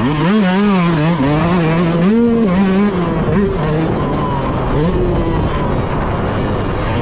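Motocross bike engine under race riding, revving up and down repeatedly as the throttle is opened and rolled off.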